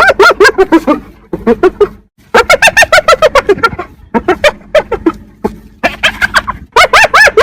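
Spotted hyena giggling: rapid runs of short, high-pitched, yelping notes, each rising and falling in pitch, in several bouts separated by brief pauses.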